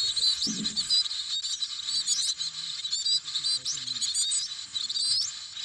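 Songbird nestlings in a wall-cavity nest calling continuously, a dense run of short, high-pitched chirps: the chicks begging for food from their parents.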